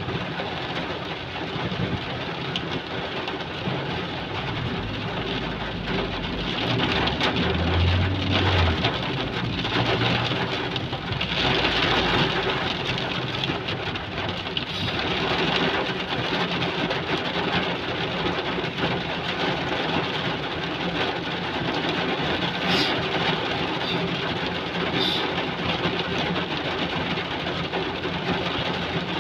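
Heavy rain pouring down in a steady, dense hiss, swelling louder twice in the first half.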